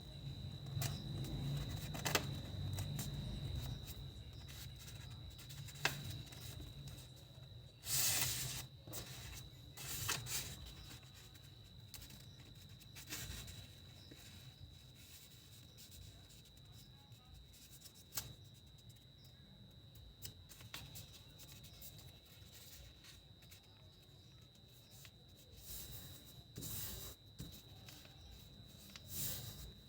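A sheet of paper being folded and creased by hand: scattered rustles and crinkles, with a faint steady high whine underneath.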